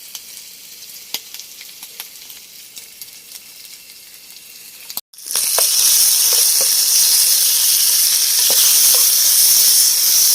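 Food frying in hot oil in a pan: a quieter sizzle with scattered crackles, then after a brief cut about halfway through, a much louder, steady sizzle with crackling pops.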